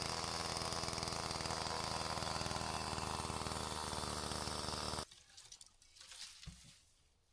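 Small petrol engine running steadily with a fast even pulse, then cut off abruptly about five seconds in, followed by a few faint knocks.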